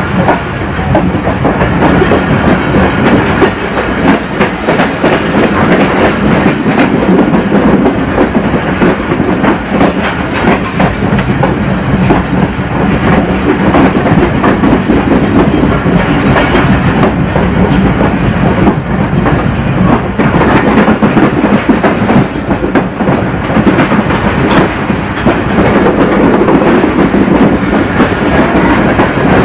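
Pakistan Railways passenger coaches running through at speed, heard from an open coach doorway: a loud, steady rumble of wheels on the rails with a constant clatter of clicks over the rail joints.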